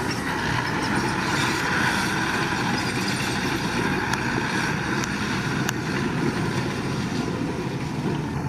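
Diesel engine of heavy construction machinery running steadily, with no change in load or pace.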